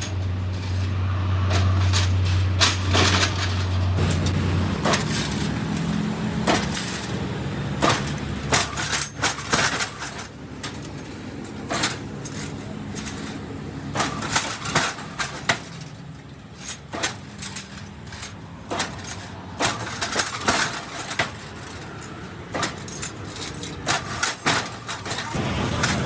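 Irregular clinks and knocks of hard parts or tools being handled, dozens of sharp strikes at uneven spacing. A low steady hum runs underneath and stops about five seconds in.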